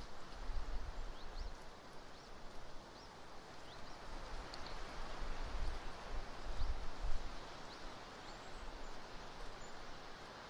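Strong gusty wind rushing and buffeting the microphone, with low rumbles rising and falling, over a steady rustle. Short, high rising chirps of a small bird come about once a second.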